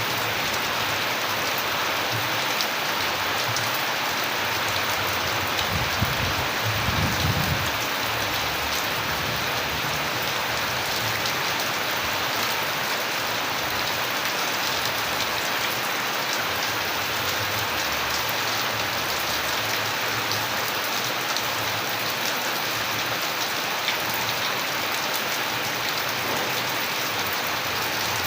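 Steady rain falling, a dense even hiss of drops, with a brief low rumble about six to seven seconds in.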